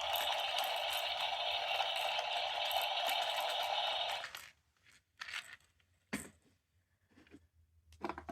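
A sound-making capsule toy playing a steady, crackly recorded sound through its tiny speaker; it cuts off about four seconds in. A few light clicks and handling knocks of the small plastic toy follow.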